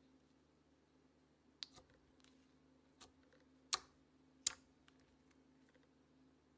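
A few sharp clicks and taps, the two loudest close together in the second half, over a faint steady low hum.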